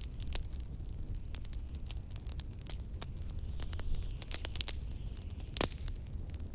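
Wood fire crackling in a fireplace, with frequent sharp snaps and one louder pop about five and a half seconds in, over a steady low rumble of blizzard wind.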